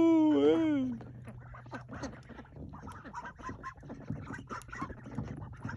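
Ducks quacking: one loud, drawn-out quack in the first second that wavers and drops in pitch, then a run of softer, quick quacks and chatter.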